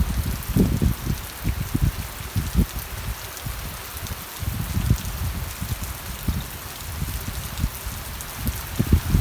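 Steady rain falling, an even hiss with irregular low thuds and swells underneath.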